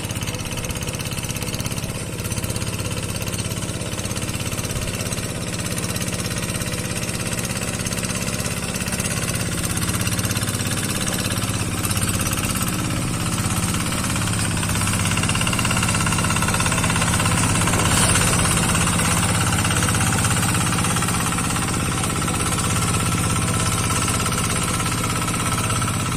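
Rice-paddy tractor's engine running steadily without a break, getting slightly louder around the middle.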